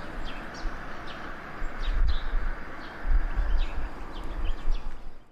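Many short, high bird chirps over a steady outdoor hiss, with a low rumble that swells from about two seconds in. The sound cuts off abruptly at the end.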